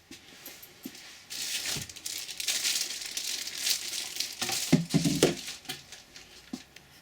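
Packaging crinkling and rustling as it is handled during unboxing, with a few dull knocks near the middle.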